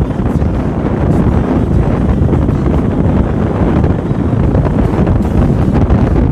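Loud, steady wind buffeting on the microphone of a moving motorcycle.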